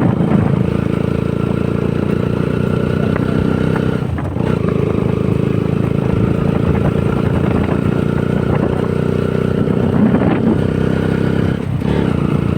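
Honda CBR150R's single-cylinder engine running steadily under way, dipping briefly twice, about four seconds in and near the end.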